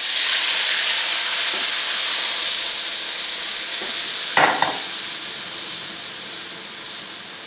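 Beef stock poured into a hot braising pan just used to brown steaks, deglazing it: the stock hits the pan with a loud sizzle that starts suddenly and slowly dies down as it comes to a boil.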